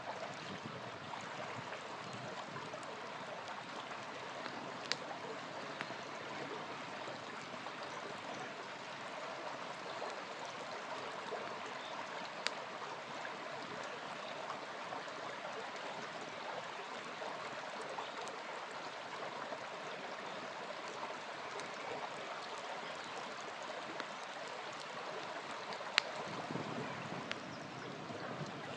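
Small river flowing steadily, with a few sharp pops from a wood campfire, the loudest near the end.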